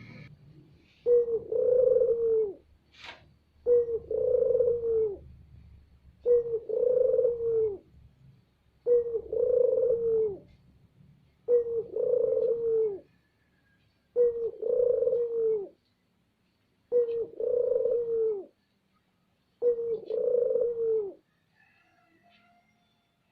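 Barbary dove (burung puter) cooing loudly: eight drawn-out coos of about a second and a half each, repeated every two and a half seconds or so. It is a lure call (pancingan) used to set other puter doves cooing.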